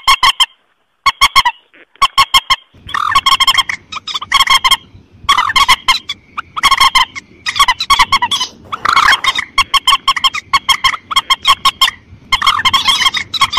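Calls of a mandar (a rail or swamphen) played as a hunting lure: rapid trains of short, harsh, repeated notes in bursts, with a brief pause about a second in.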